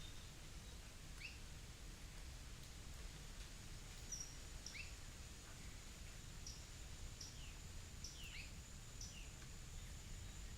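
Faint outdoor ambience with small birds giving short, sharp, down-slurred chirps, about a dozen scattered through, mostly from about four seconds in. Underneath are a steady low rumble and a thin, steady high-pitched tone.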